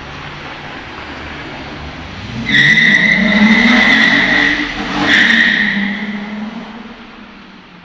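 Volkswagen VR6 narrow-angle six-cylinder engine in a car, running steadily and then opening up about two and a half seconds in, its note rising quickly. A loud, high-pitched steady squeal sits over it for about three seconds, then the engine note eases off and fades away.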